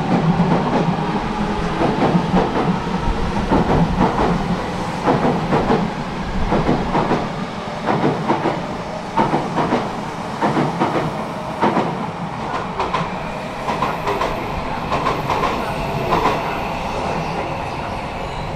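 Unrefurbished Odakyu 1000 series electric train moving off past the platform. Its wheels click and clack over rail joints on top of steady running noise, which eases a little near the end as the last cars go by.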